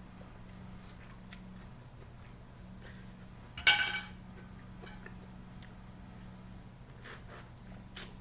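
A utensil clinks once against a bowl or plate about a third of the way in, loud and briefly ringing, with a few small clicks of eating utensils near the end over a steady low hum.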